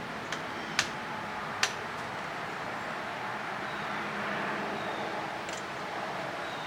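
Two sharp clicks a little under a second apart over a steady hiss, like a fan.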